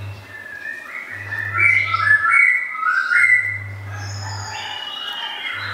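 A songbird singing: a run of quick whistled notes stepping up and down in pitch, loudest in the middle. Beneath it a low hum switches on and off every couple of seconds.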